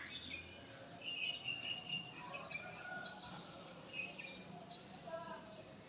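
Small birds chirping and twittering in short high calls, several bursts scattered through, with a faint outdoor noise behind.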